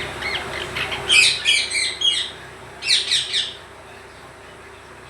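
Indian parrot calling: a few short chirps, then two bouts of loud, harsh squawks in quick succession that stop about three and a half seconds in. A steady low hum runs underneath.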